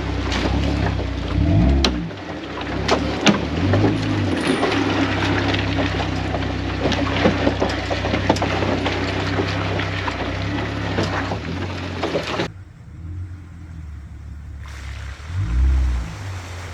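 A 4x4 truck's engine running as it drives through a muddy water pit, with water splashing and scattered knocks and slaps. The sound drops off suddenly about twelve seconds in, then a quieter engine sound returns.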